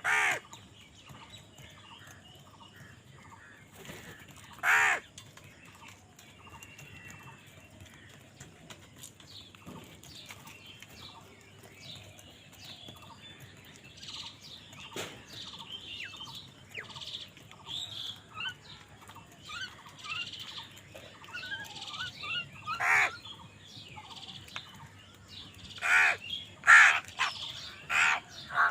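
Crows cawing: loud harsh caws near the start, at about five seconds and in a quick run near the end, with smaller birds chirping softly throughout.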